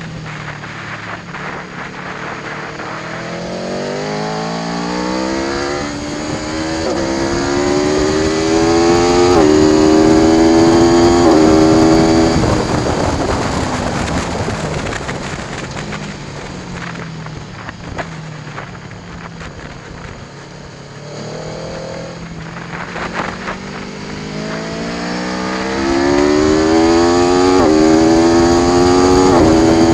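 Aprilia Tuono V4 1100 Factory's V4 engine pulling hard up through the gears, its pitch climbing and dropping sharply at each upshift. Then it comes off the throttle with the revs falling through a slowing stretch, and accelerates up through the gears again near the end. Wind noise runs underneath.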